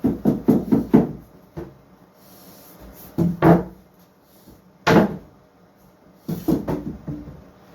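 Wooden boards knocking and thumping as they are handled and set in place. There is a quick run of knocks at the start, two more about three seconds in, one sharp knock about five seconds in, and another run near the end.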